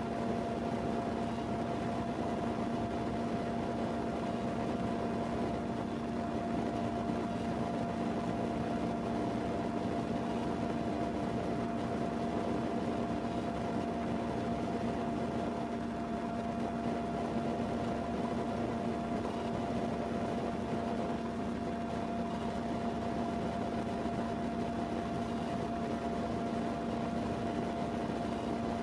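Steady machine hum with a few fixed tones over a constant hiss, unchanging throughout.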